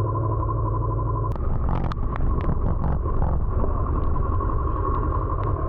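Motorcycle riding on the road: a steady engine drone and rumble with a held tone. About a second in, a rougher rush joins it, dotted with scattered sharp ticks.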